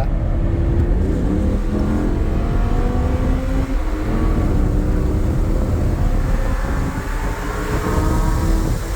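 Lamborghini Huracan V10 engine pulling hard under acceleration on track. Its pitch climbs steadily, drops about four seconds in as it shifts up, then climbs again.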